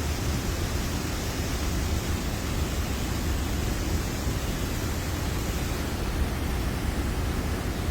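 Waterfalls: a loud, steady rush of falling water, even throughout and heaviest in the low range.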